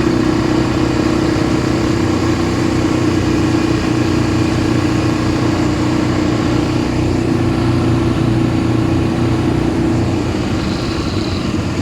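ATV engine running steadily, easing off slightly near the end.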